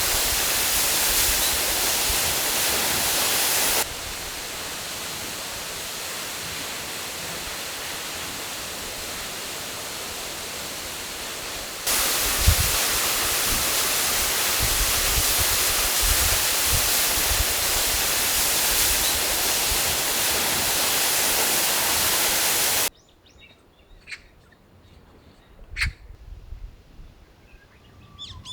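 Loud, steady outdoor rushing noise with low rumbling thumps underneath, stepping abruptly quieter about four seconds in and back up about twelve seconds in. About 23 seconds in it cuts to a much quieter scene with a few sharp clicks, and birds start chirping right at the end.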